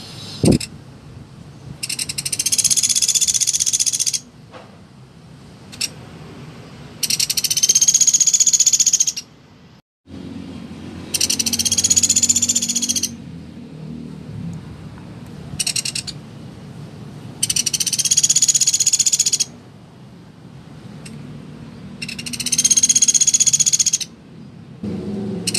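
Pelatuk beras woodpecker giving rapid, high rattling trills, each about two seconds long and repeated about every five seconds, one of them much shorter.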